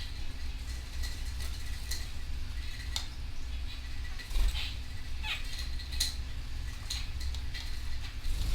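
Canaries giving short, scattered chirps and cheeps, with one falling call about five seconds in, over a steady low rumble and faint hum.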